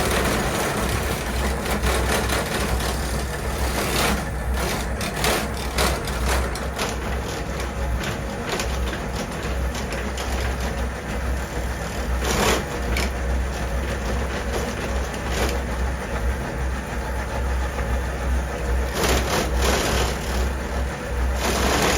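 BMW R1250 GSA motorcycle under way: a steady low engine drone under wind and road noise, with a few short gusts of wind buffeting the microphone.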